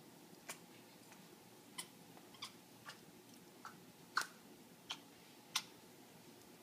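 African grey parrot making a series of short, sharp clicks and clucks, about eight at uneven spacing, the loudest a little past the middle, as part of its mating display.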